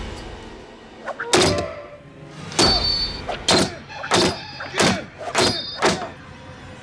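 A blade chopping down hard again and again: seven heavy thunks, the first two a second apart and the rest coming faster, a little over one a second.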